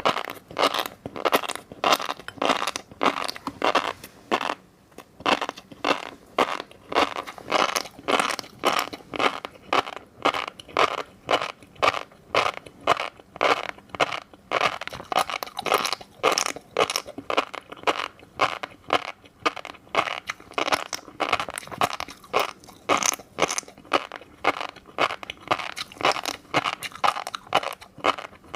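Close-miked chewing of fish roe, the beads crunching and popping in quick repeated bites, about two a second.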